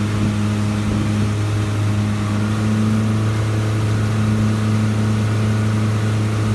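Motorboat engine running steadily, a constant low drone that holds the same pitch throughout.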